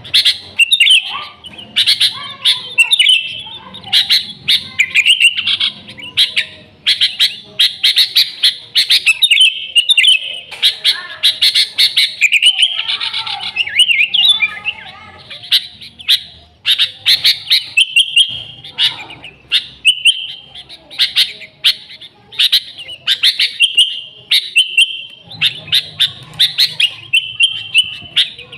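Sooty-headed bulbul (kutilang) singing vigorously: a busy, unbroken run of short chirping and warbling phrases.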